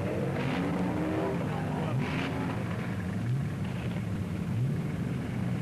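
Big-block V8 muscle-car engine revving, its pitch rising again and again about every second and a half.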